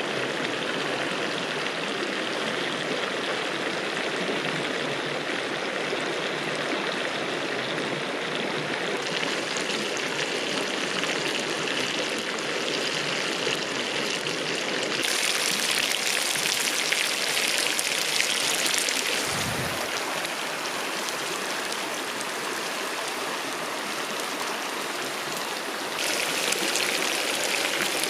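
Riverside stream flowing: a steady rushing water noise whose brightness shifts abruptly a few times, with a brief low thump about two-thirds of the way in.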